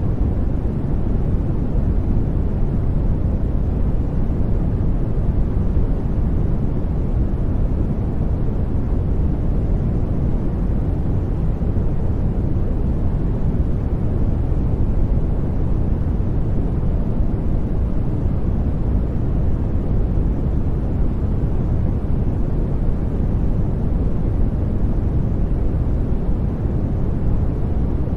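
Steady, unbroken sleep noise: an even hiss weighted to the low end, deep and rumbling rather than bright.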